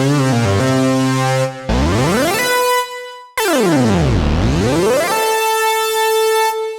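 Sequential OB-6 analog polyphonic synthesizer playing a custom patch. A run of stepping notes gives way to a tone that glides up into a held note. A second tone then swoops down and back up into a held note that fades out near the end.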